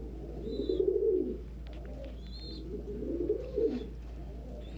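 Domestic pigeons cooing: two low, rolling coos about a second long each, one near the start and one about three seconds in, with faint high chirps between them.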